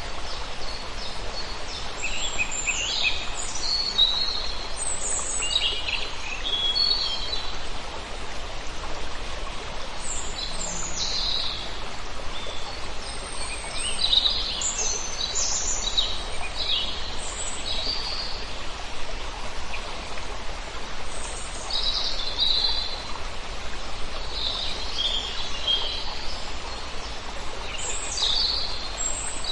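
A large flock of birds calling, many short high chirps overlapping and scattered throughout, over a steady background hiss.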